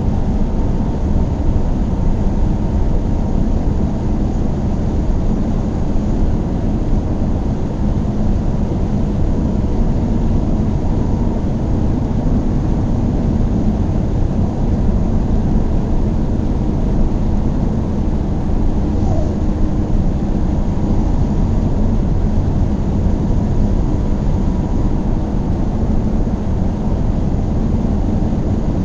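A car driving steadily at speed: a continuous low drone of engine and road noise, with a faint steady whine above it.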